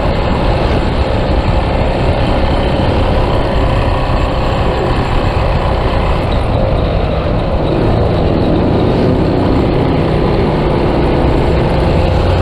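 Yamaha Scorpio motorcycle's single-cylinder engine running while riding, under a loud, steady rush of wind on the microphone.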